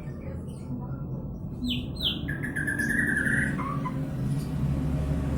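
White-rumped shama singing a short phrase about two seconds in: two quick high falling notes, then a run of lower notes that steps down in pitch.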